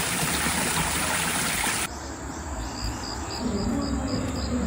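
Running water rushing steadily, then after a sudden drop in level about two seconds in, an insect chirping in an even rhythm, about three short high chirps a second.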